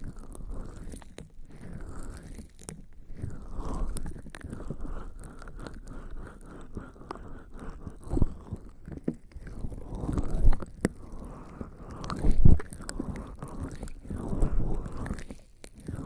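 Bare skin slick with lubricating jelly rubbing and scratching right on a binaural microphone's ears: close, wet, crackly friction with irregular strokes. A few louder muffled bumps come about eight, ten and a half and twelve and a half seconds in.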